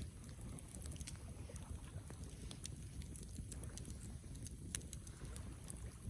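Campfire burning: a steady low rumble of flames with frequent irregular crackles and small pops from the burning wood, one a little sharper near the end.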